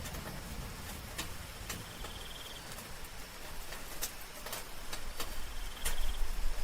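Soft rain falling steadily, with scattered drops ticking sharply on a surface. A short, high insect chirp, cricket-like, comes about every three seconds, and a low rumble swells near the end.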